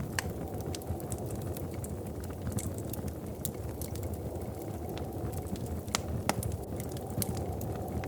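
Wood fire crackling: irregular sharp pops and snaps, a few louder ones, over a steady low rushing noise.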